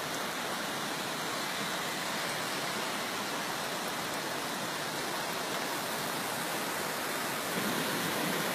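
Heavy rain pouring down in a steady hiss of water, growing a little louder near the end.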